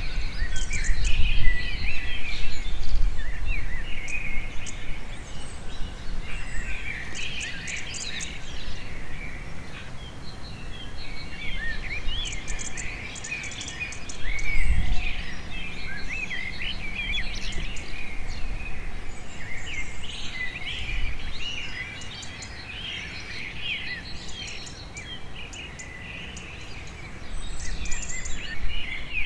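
Many small birds chirping and twittering in overlapping quick calls, with a low rumbling noise underneath that is strongest in the first few seconds.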